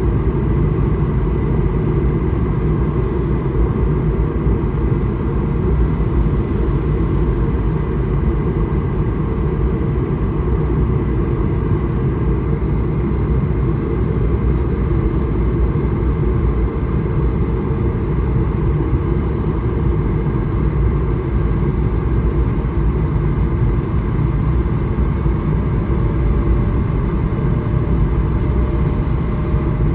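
Steady cabin noise inside an Airbus A220-300 in flight: an even, low rumble of airflow and its Pratt & Whitney geared turbofan engines, with faint steady tones above it.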